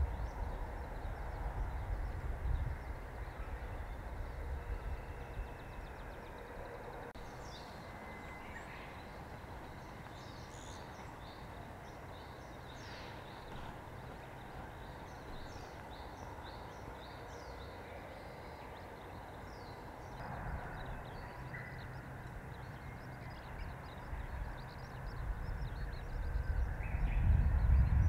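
Faint, short, high-pitched chirps of small wild birds, scattered and densest in the middle, over a low outdoor rumble that grows louder near the end.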